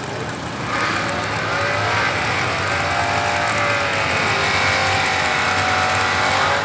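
Drag racing car's engine running hard on the strip, starting up loud less than a second in and holding, its pitch sagging and then climbing again.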